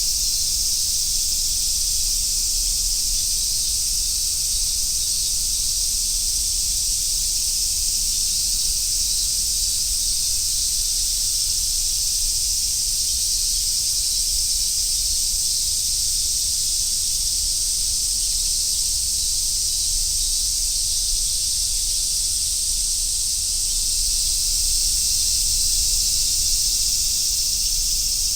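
A dense chorus of cicadas buzzing steadily as one continuous high, sizzling drone, easing off slightly in the middle and swelling again near the end.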